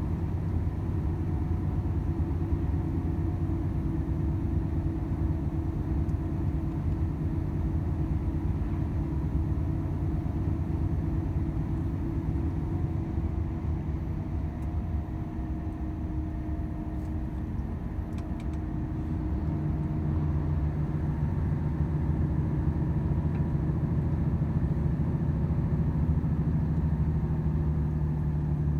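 Volvo FH 500 truck's diesel engine running steadily under way, with road and tyre noise. About two-thirds of the way through, a low engine tone gets stronger and the sound grows louder.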